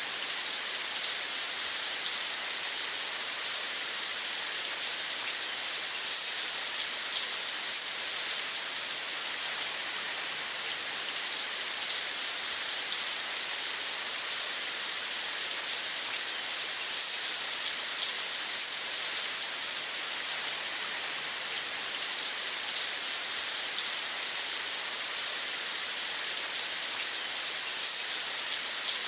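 Steady rain falling: an even hiss with a fine patter of drops that does not change.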